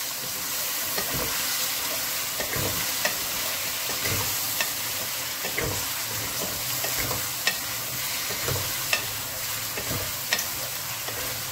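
Chicken pieces and onions with ginger-garlic paste sizzling in oil in a metal pot, stirred with a wooden spatula that knocks and scrapes against the pot now and then.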